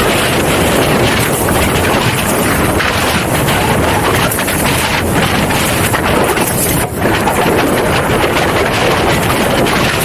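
Strong wind blasting the microphone over water rushing and splashing past the hulls of a Hobie 16 catamaran sailing fast, about 19 knots, through chop. The noise is loud and steady, with a brief dip about seven seconds in.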